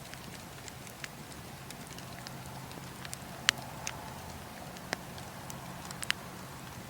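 Wood campfire burning, a steady low hiss broken by scattered sharp crackles and pops from the burning logs and coals. The sharpest pop comes about halfway through.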